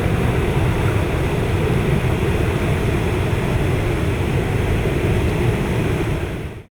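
Floodwater in a flooding creek rushing steadily, cutting off suddenly near the end.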